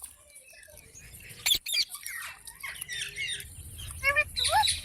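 Pet parrots chattering with short squeaky chirps, then a quick run of louder rising squawks near the end. A sharp click about one and a half seconds in.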